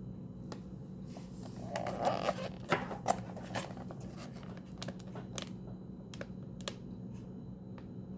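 Handling of a boxed diecast toy truck: scattered sharp clicks and a short crinkling scrape of plastic packaging about two seconds in, over a low steady hum.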